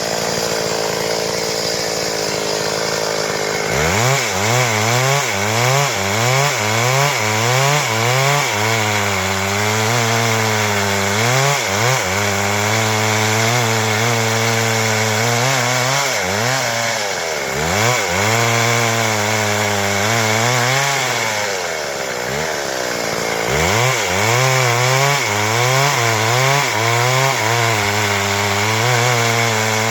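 Stihl MS 382 two-stroke chainsaw running at high revs and cutting wood, its engine pitch wavering up and down continually under load and dropping back briefly a few times.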